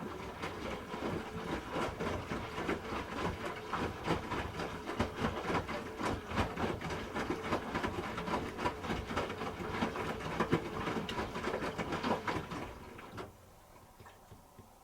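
Hoover H-Wash 300 Plus washing machine's drum turning the wet load during a rinse, a dense, uneven run of splashes and knocks that stops near the end.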